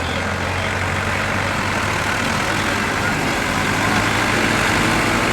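Diesel tractor engine running steadily, growing gradually louder toward the end.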